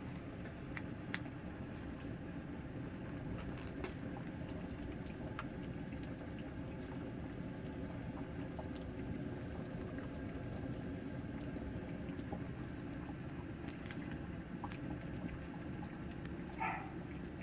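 Crucian carp broth boiling in a wood-fired cast-iron cauldron, a steady low bubbling rumble with scattered faint crackles. A short chirp sounds near the end.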